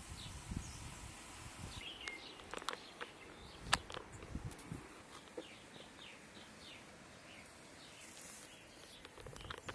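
Small birds chirping now and then over faint outdoor background noise. Between about two and five seconds in come a few sharp clicks and soft knocks close to the microphone, the loudest near four seconds, while a goat's head is up against the phone.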